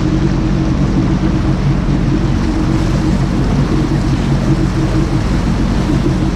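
Jet ski engine running at a steady speed, with a rushing hiss of water and wind over its drone.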